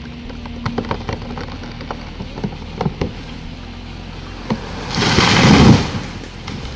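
Felled gum tree's wood cracking and snapping in a run of sharp cracks, then a loud rushing crash about five seconds in.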